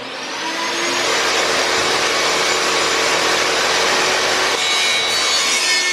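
Electric power saw running steadily after being switched on, its whine rising as the motor comes up to speed during the first second; the tone shifts a little past four seconds in.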